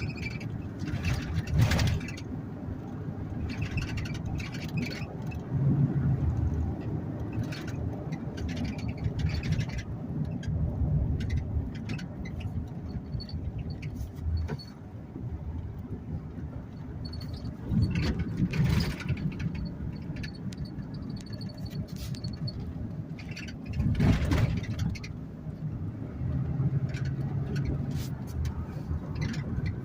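Car driving along a road: steady engine and tyre rumble with scattered clicks, and a few louder rushes of noise, one near the start and two in the second half.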